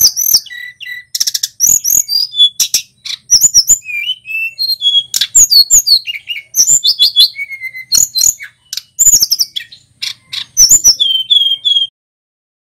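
Male tledekan gunung singing a fast, varied song of high whistled phrases, falling slurred notes and sharp clicking calls. The song cuts off suddenly near the end.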